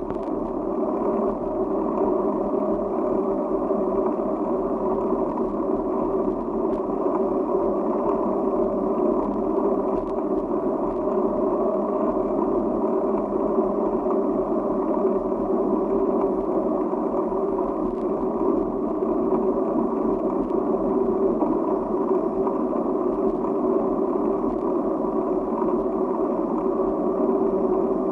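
Steady, even running noise of a vehicle in motion, with no pauses or changes.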